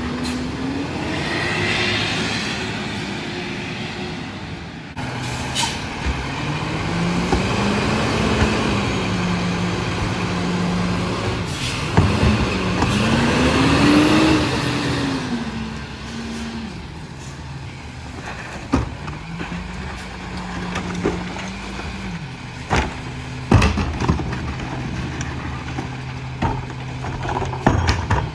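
Diesel engine of a Freightliner M2 McNeilus rear-loader garbage truck revving up and settling back about four times, with a few sharp knocks in between.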